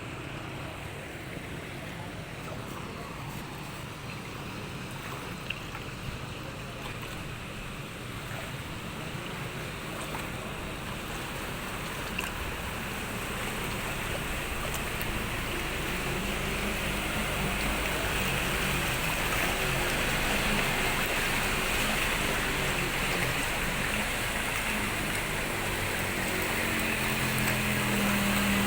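Steady rush of water with a motor engine running under it, the engine growing louder through the second half.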